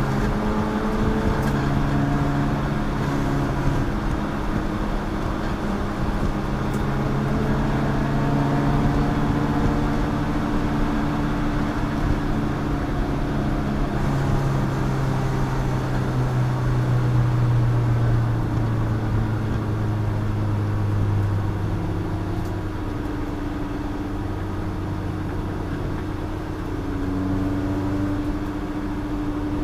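Endurance race car's engine running hard around a circuit, its pitch climbing and dropping as it accelerates and slows, over a steady rush of road and wind noise.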